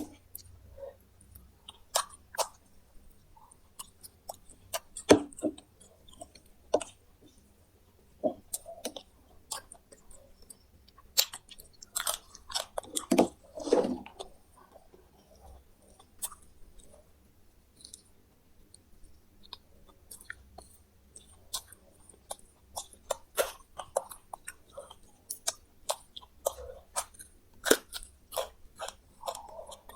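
A person chewing and crunching fried meat close to the microphone, with irregular sharp crunches that are thickest about halfway through.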